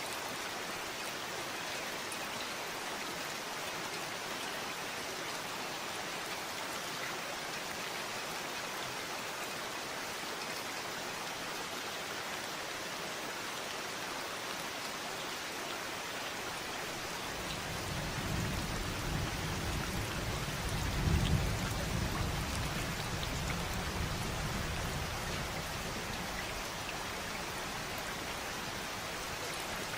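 Steady rain falling in an even hiss. In the second half, a rumble of thunder swells, peaks and fades away over several seconds.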